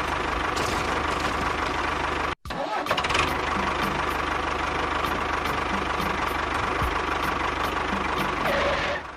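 A motor running steadily, with a brief dropout about two and a half seconds in.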